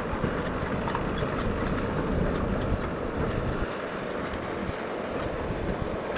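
Narrow-gauge industrial train running: a steady low rumble with a few faint clicks, with wind buffeting the microphone.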